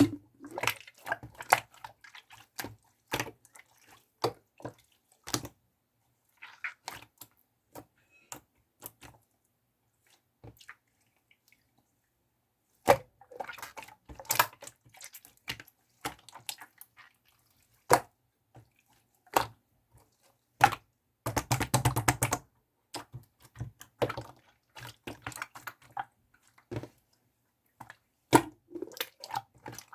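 Clear green slime being squeezed and poked by hand, giving irregular sticky clicks and small pops, with a dense run of crackling about two-thirds of the way through.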